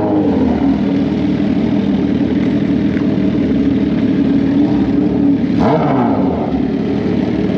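Drag-racing motorcycle engines running at a steady pitch, with a brief shift in pitch and a burst of higher-pitched noise about five and a half seconds in.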